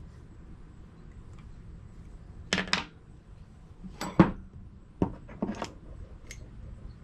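Metal engine parts and tools clinking and clanking as they are handled, a handful of separate sharp knocks with the loudest about four seconds in.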